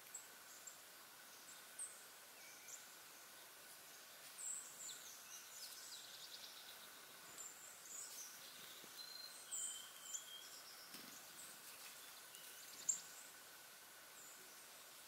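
Faint outdoor ambience with scattered short, high-pitched chirps of small birds and a faint steady high hum, broken by one sharp click near the end.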